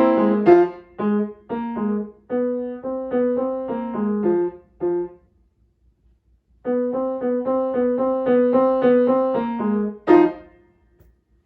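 Solo piano playing short, detached notes and chords. It breaks off for about a second and a half partway through, then resumes and ends a phrase on a louder chord that dies away near the end.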